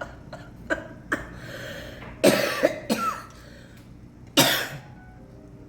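A woman coughing: a cluster of coughs about two seconds in and one more strong cough a little after four seconds.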